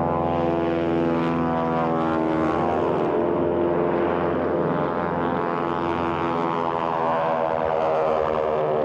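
Vultee BT-13 Valiant trainer's radial engine and propeller at takeoff power, droning loudly as the plane goes by, the pitch shifting partway through.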